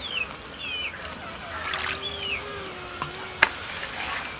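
Cassava dough being mixed into water, with small splashes and a few sharp knocks of the utensil, the loudest about three and a half seconds in. Small birds chirp repeatedly throughout.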